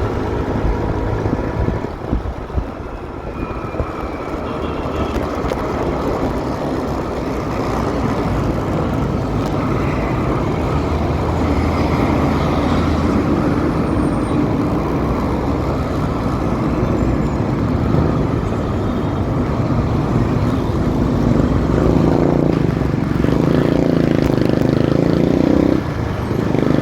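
Motorcycle engine running under way in city traffic, with road and wind noise. Near the end the engine note climbs, drops briefly, then picks up again.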